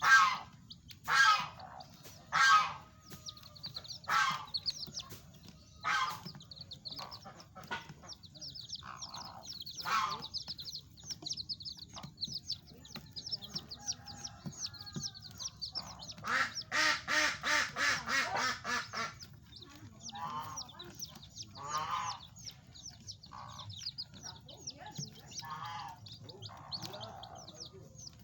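Village chicks (ayam kampung) peeping continuously in short high chirps, with louder, lower calls from a larger fowl every second or two and a quick run of loud repeated calls about two-thirds of the way through.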